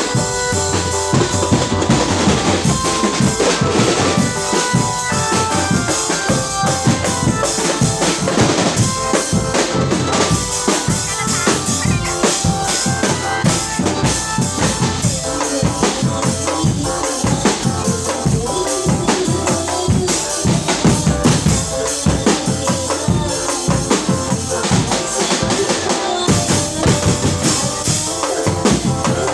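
Live percussion band playing a steady, driving drum beat with deep bass-drum and sharp snare-like hits, under a melodic line of held notes.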